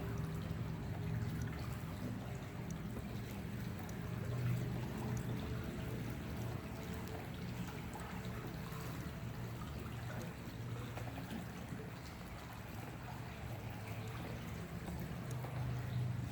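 Water trickling and lapping, with a steady low hum underneath.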